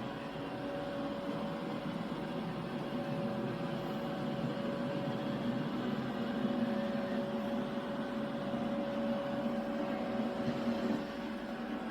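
Robot vacuum running: a steady motor hum with a constant whine.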